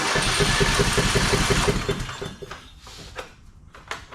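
Craftsman mower's 20 hp single-cylinder Briggs & Stratton engine cranked and catching, running with a rapid pulsing for about two seconds before dying away, a sign it will run but is short of fuel.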